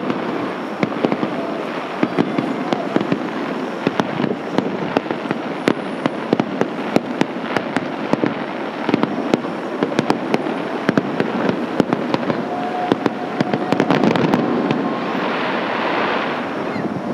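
Aerial fireworks bursting: a dense, continuous run of sharp cracks and pops from crackling glitter shells, with a rushing hiss that swells near the end.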